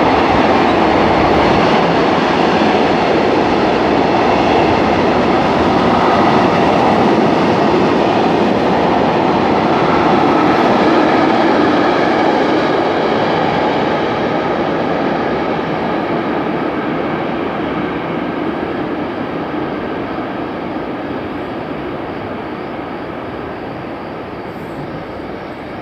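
First-generation TGV Duplex high-speed train rolling past close by, a steady rush of wheel-on-rail noise. After about the first half it fades gradually as the train moves away.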